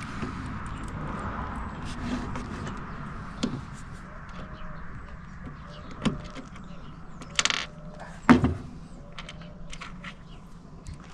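Scattered clicks, knocks and clatter of wooden shelf boards and hardware being handled, with a short rasping burst about seven seconds in and a loud knock just after it.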